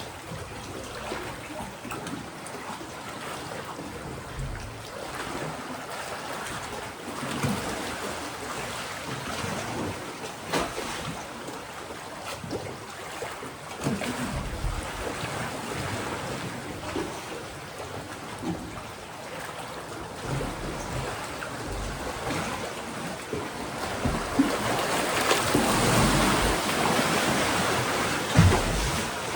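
Mediterranean sea waves washing against a rocky shore, a continuous surging wash with scattered small splashes. A larger swell builds and breaks near the end, the loudest part of the stretch.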